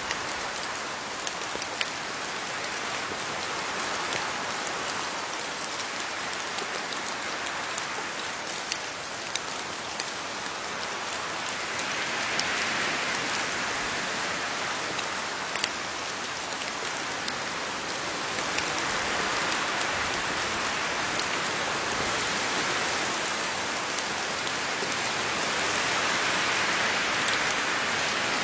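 Steady rain falling on leaves, a dense hiss with scattered sharper drop ticks, swelling and easing slightly in waves.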